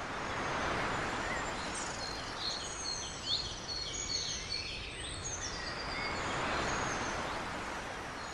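Small birds chirping and calling in quick series of short descending notes and trills, over a steady rushing noise that swells and eases twice.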